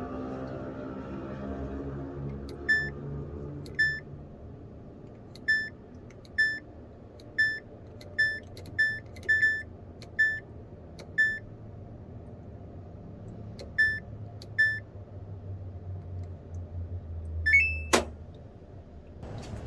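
Short electronic beeps from a household appliance's control panel, about fifteen irregularly spaced, like buttons being pressed, over a steady low hum. Near the end a quick rising two-tone chirp and a sharp click.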